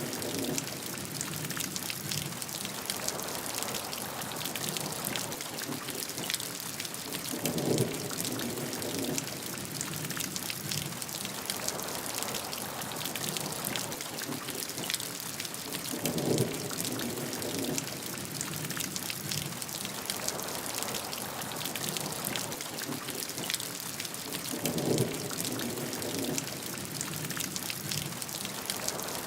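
Steady rainfall, an even hiss of drops on a surface. Three times, evenly spaced about nine seconds apart, a short deeper and louder burst rises over it.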